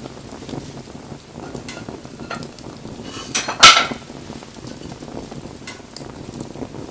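Wood fire crackling with scattered sharp pops, and one loud clatter about three and a half seconds in.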